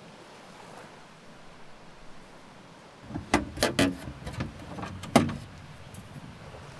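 Lid of an old wooden nagamochi chest being worked open: a quick run of wooden knocks and clatter about three seconds in, then one sharp knock a little after five seconds.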